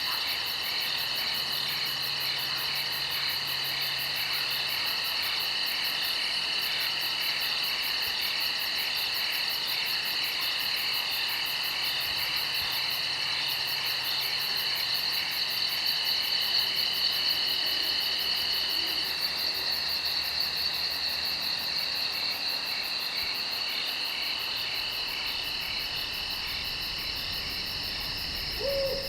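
Night insect chorus, crickets or katydids trilling steadily in a fast, even pulse, with no break.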